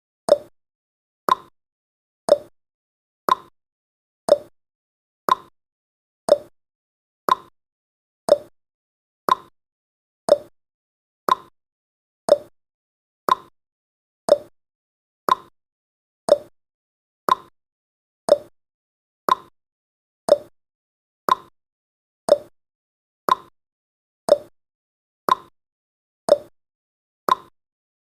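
Countdown timer sound effect: one short, hollow tick every second, evenly spaced, marking each second counted off.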